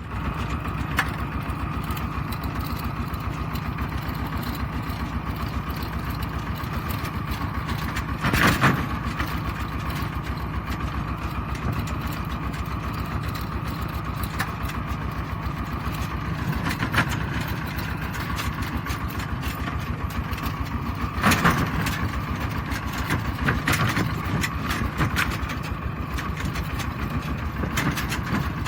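Kubota RT120 Plus tractor's single-cylinder diesel engine running steadily with a rapid, even chug. A few brief louder bursts of noise come over it, about 8 seconds in and again later.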